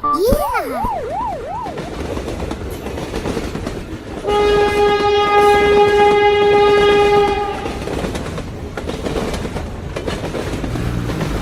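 Cartoon train sound effects: a train running with a steady rumbling clatter, and its horn blown as one held tone for about three seconds near the middle. A few quick swooping glides in pitch open the passage.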